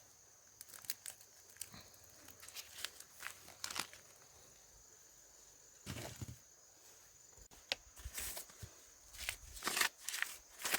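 Dry corn leaves and husks rustling and crackling, with sharp snaps as ears of corn are broken off the stalks by hand. The snaps come in quick clusters and get busier near the end.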